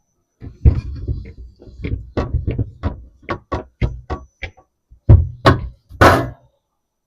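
A run of knocks, thuds and clicks as hard kitchen items are handled and set down while a fridge and freezer are emptied. The heaviest hits come a little after five seconds in, followed by a longer, harsher clatter around six seconds.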